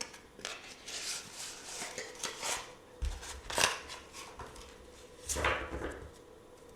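Tarot and oracle cards handled close to the microphone: a string of short rustles and slides with a few light taps, the loudest about halfway through and again near the end.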